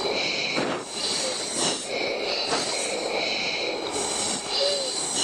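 Steady rush of F-16 cockpit noise heard over the intercom, with hissing breaths through an oxygen mask surging about once a second, as the crew breathe hard under high G with the afterburner lit.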